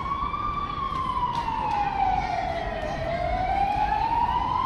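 Emergency vehicle siren sounding a slow wail: its pitch peaks just after the start, glides down for about two and a half seconds, then climbs again near the end.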